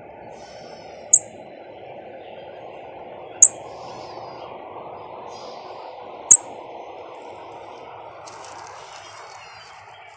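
Songbirds calling: three sharp, very high, loud chirps a few seconds apart over faint twittering song, with a steady background hum underneath.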